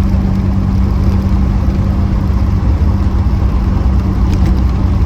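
Reliant Scimitar GTE SE5a's Ford Essex V6 engine pulling the car along at a steady pace, a constant drone with road noise underneath.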